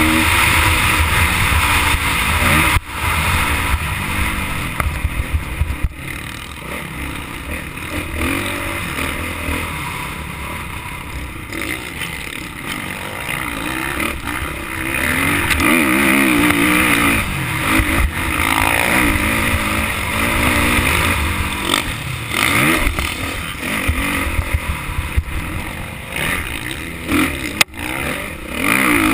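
Motocross motorcycle engine being ridden hard, revving up and falling back again and again through the gears.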